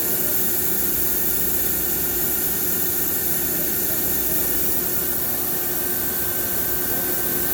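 NTC CNC vertical machining center running its program: a steady hissing machine drone with a couple of held tones.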